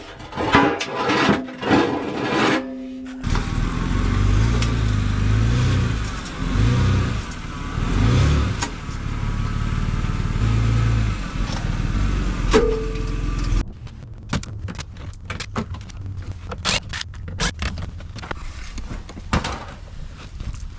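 A car engine running with a wavering low note that cuts off suddenly about two-thirds of the way through, after some clatter at the start. A run of light clicks and taps follows.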